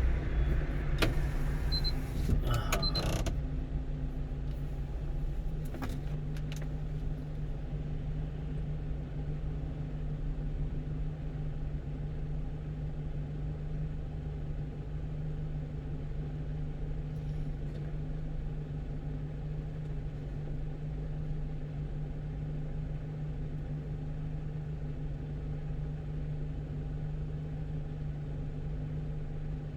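Steady engine and road noise inside the cab of a one-ton truck cruising, a constant low hum over rumble. A few short clicks in the first three seconds.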